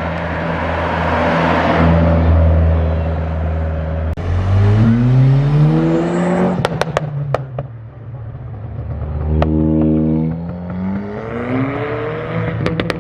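Car engine running, then revving up twice with a rising note, with a few sharp cracks after the first rev.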